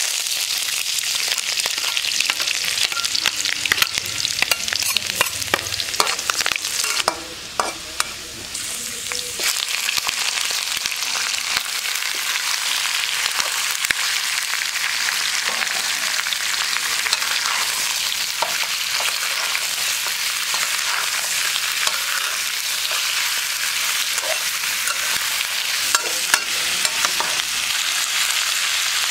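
Hot oil sizzling in a wok as chopped aromatics and then raw chicken pieces stir-fry, with a metal spatula scraping and clicking against the pan. The sizzle dips briefly about seven seconds in, then runs on steadily.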